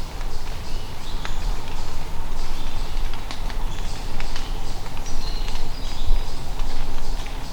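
Small birds chirping and calling in short, scattered notes over a steady low rumble.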